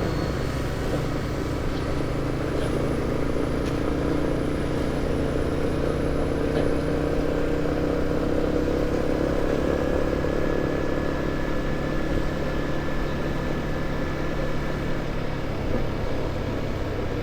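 Motorcycle engine running steadily while riding, its pitch drifting gently, over road and wind noise.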